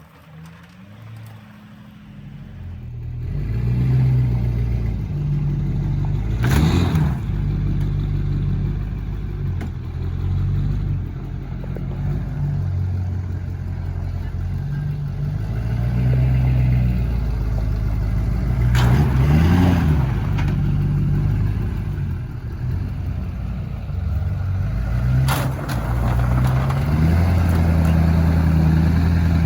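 Lifted 2003 pickup's LB7 Duramax 6.6 L V8 turbo-diesel revving up and easing off again and again while ramming a scrap car. Three sharp crashes, at about 7, 19 and 25 seconds, are the front bumper hitting the car.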